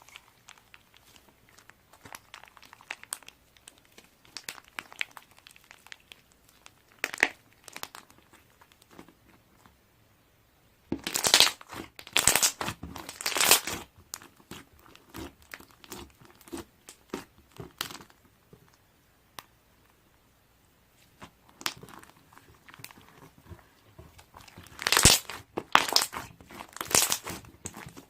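Crinkling and rustling in irregular bursts, loudest about a third of the way in and again near the end, with a short lull in between.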